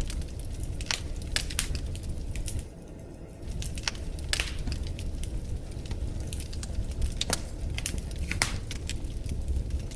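Fire burning in a fireplace: irregular sharp crackles and pops over a steady low rumble of flames, briefly quieter about three seconds in.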